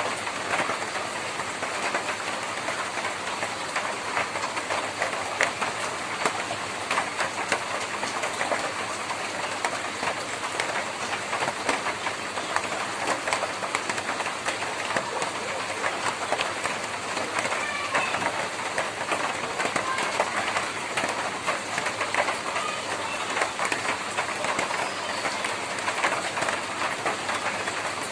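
Heavy rain falling on a tin roof: a dense, steady patter of drops ticking on the metal sheets.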